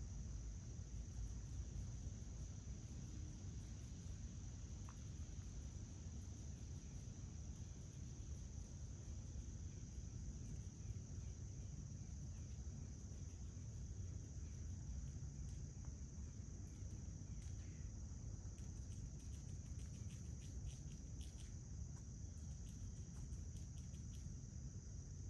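Crickets chirping in a steady high-pitched chorus over a low outdoor rumble, with a quick run of small clicks in the second half.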